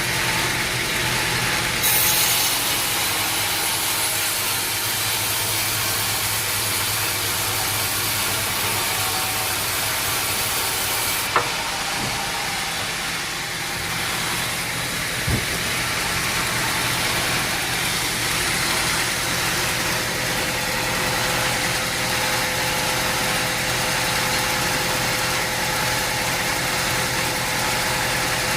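Sawmill machinery running with a steady engine hum. A louder hiss comes in about two seconds in and stops suddenly about eleven seconds in, and two sharp knocks follow a few seconds apart.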